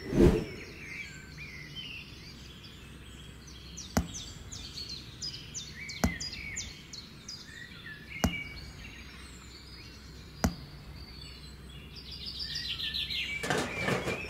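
Birds chirping throughout, with a handful of sharp single clicks or knocks spaced about two seconds apart; the chirping grows louder near the end.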